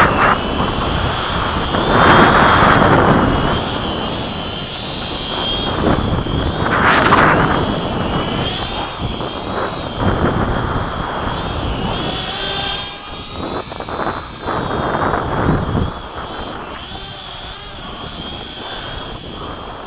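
Electric motors and propellers of a small radio-controlled B-17 model airplane in flight, a high whine that wavers up and down in pitch as it flies. Gusts of wind buffet the microphone several times, loudest in the first half.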